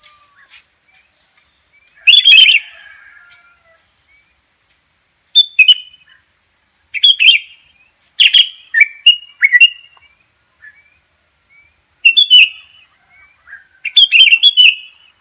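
Sooty-headed bulbul (kutilang) calling in short bubbly bursts of chirps, about six phrases separated by pauses of a second or more.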